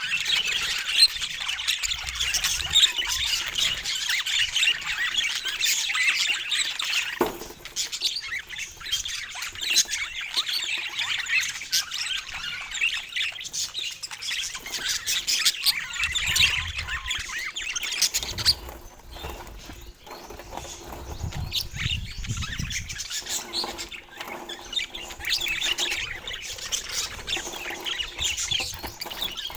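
Budgies chattering and chirping, a dense stream of short overlapping high calls that thins out about seven seconds in and again after about eighteen seconds.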